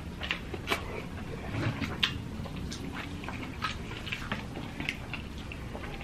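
Close-miked eating sounds: wet chewing, lip smacks and small clicks of the mouth as two people eat rice and fried fish with their hands, irregular, a few a second.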